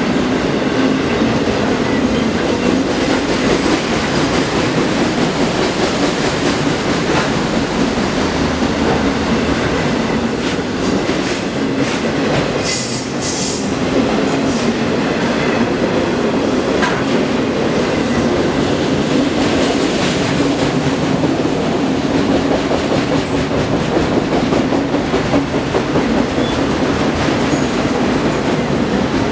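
Autorack freight cars passing close at speed: the steady, loud running noise of steel wheels on rail. A thin high squeal comes in for a few seconds about ten seconds in.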